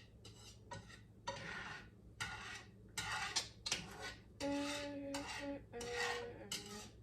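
A utensil scraping and rubbing against a pan in a series of short strokes, with a brief ringing tone from the metal about two-thirds of the way through.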